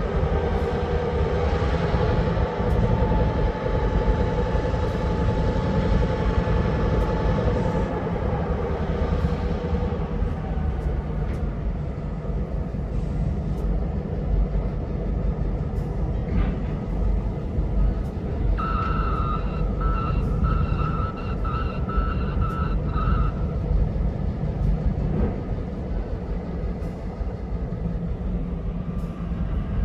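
EMD SW1001 diesel switcher locomotives running with a heavy, steady rumble, the engine's pitched note clearest in the first third. Just past the middle, a rapidly pulsing ringing tone sounds for about five seconds.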